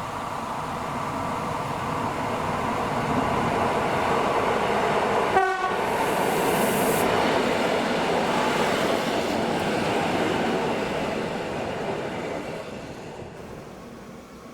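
Train passing: the rolling noise of wheels on rails builds, stays loud for several seconds, then fades away near the end. A brief rising squeal comes about five seconds in.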